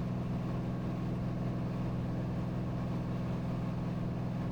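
Cirrus SR22T's turbocharged six-cylinder engine and propeller droning steadily at full climb power, heard from inside the cockpit.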